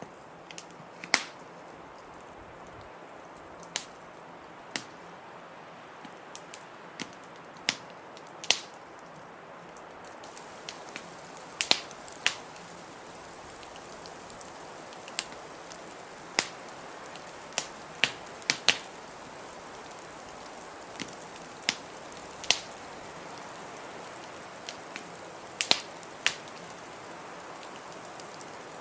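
Wood fire crackling, with sharp pops at irregular intervals, over a steady hiss of blizzard wind.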